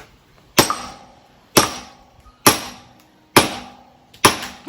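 An axe swung one-handed strikes a log five times, sharp chops about a second apart, as the wood is worked toward splitting.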